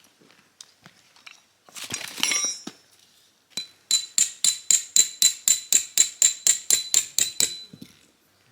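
A short clatter, then a quick run of about sixteen hammer blows on metal, roughly four a second, each with a bright metallic ring.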